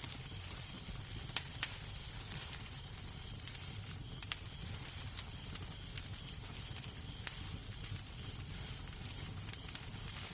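Wood fire crackling in a fireplace: a steady low rumble and hiss with irregular sharp pops and snaps.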